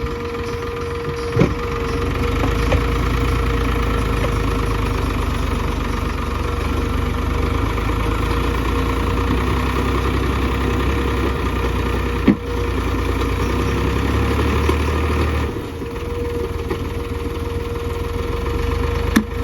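Tractor diesel engine running under load, getting louder about two seconds in and easing back about fifteen seconds in, with a few sharp clicks.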